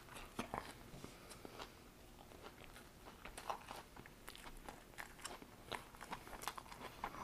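A man chewing a mouthful of fried fish sandwich on a toasted bun, close to a lapel microphone: faint, irregular crunches and small mouth clicks, with a bite near the start.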